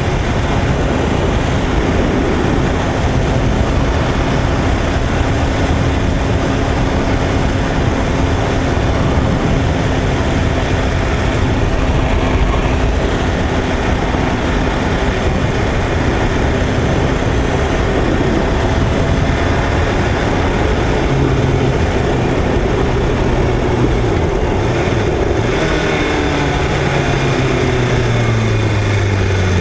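BMW S1000RR's inline-four engine running while riding, heard under heavy wind rush over the microphone. The engine note falls in pitch near the end as the bike slows.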